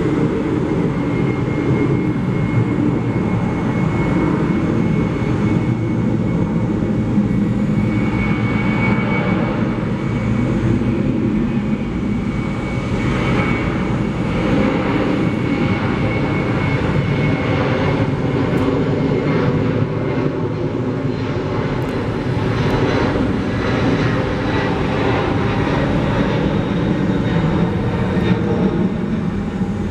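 Airliner's jet engines running, a steady loud rumble with a thin high whine that rises slightly.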